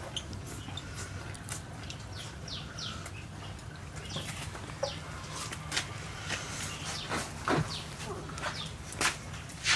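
Close-up chewing and lip-smacking on leaf-wrapped salmon salad, with crisp crunches of fresh leaves. The short wet clicks come more often and louder in the second half, over a low steady hum.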